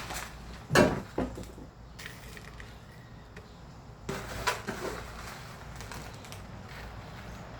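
A few sharp knocks and rustles, loudest just under a second in and again in a cluster around four to five seconds, over a steady low rumble.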